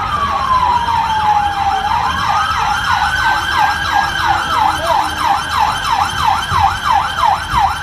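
Emergency vehicle siren sounding a slow wail that falls and then rises, switching about halfway through to a fast yelp of roughly three sweeps a second.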